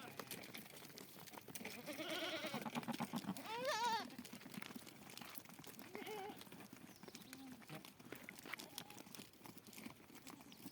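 Goats and sheep bleating: a wavering call about two seconds in, a louder quavering bleat just before four seconds, then fainter calls around six seconds, with scattered light clicks between.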